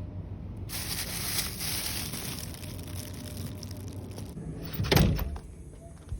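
A low steady rumble with a few seconds of hissing noise, then one loud thump about five seconds in.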